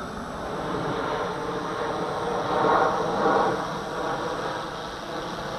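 Walkera V450D01 electric RC helicopter's main rotor and motor whirring in flight, growing louder about halfway through as it is brought in closer.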